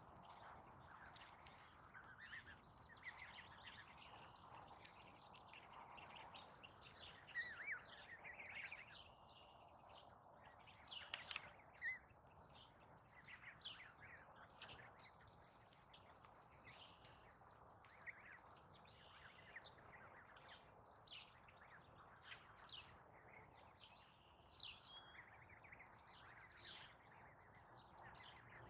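Wild birds chirping, faint, with many short scattered chirps and calls over a low steady outdoor hiss.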